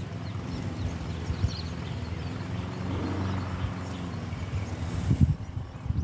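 Honda Transalp motorcycle engine running steadily, with a few low buffeting thumps near the end.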